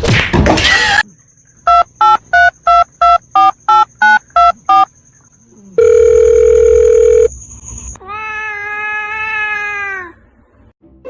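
Telephone keypad tones: about ten short beeps in quick succession, each of two pitches together, followed by a steady tone lasting about a second and a half. Near the end comes a long held call that dips in pitch as it stops.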